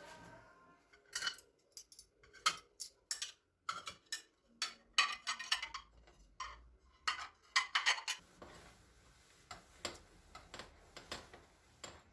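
Kitchenware being handled: irregular sharp clinks and knocks, clustered in quick runs through the middle and thinning out toward the end.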